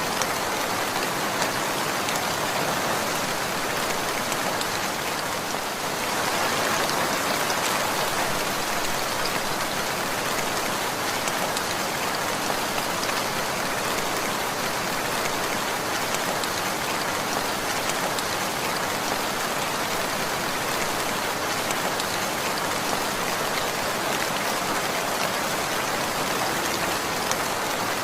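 Steady rain falling on a surface, a dense even patter of raindrops, slightly heavier about six seconds in.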